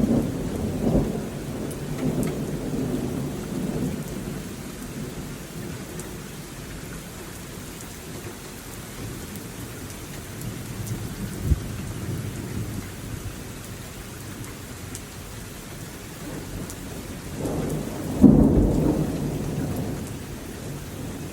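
Thunderstorm: steady heavy rain with rolling thunder. A rumble dies away over the first few seconds, a single short crack comes about halfway through, and a loud clap of thunder breaks about three seconds before the end and rumbles off.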